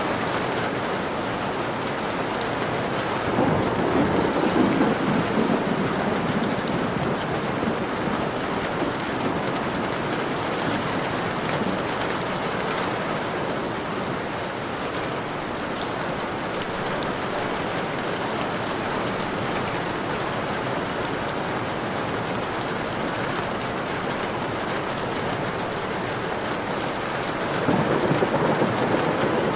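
Steady heavy rain falling on a window, with a low rumble of thunder rolling in about three seconds in and lasting a few seconds, and another starting near the end.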